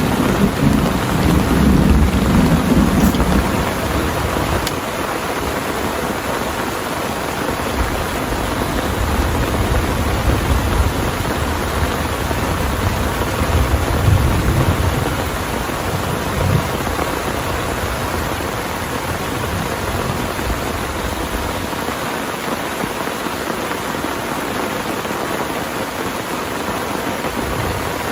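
Heavy rain pouring steadily, with thunder rumbling low during the first few seconds and again through the middle; the rumble dies away in the last third while the rain keeps on.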